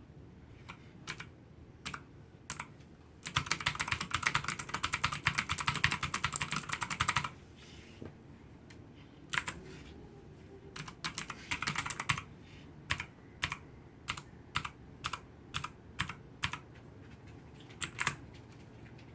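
Hansung GTune MKF14S mechanical keyboard with clicky blue switches being typed on: a few single keystrokes, then a fast run of rapid clicking lasting about four seconds, then separate key presses spaced about half a second to a second apart.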